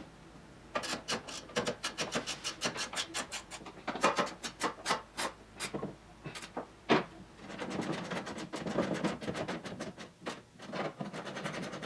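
Hand work on the car's metal dash: a quick run of clicks and scrapes, about five a second, then a single sharp knock, followed by steadier rubbing as parts are fitted into place.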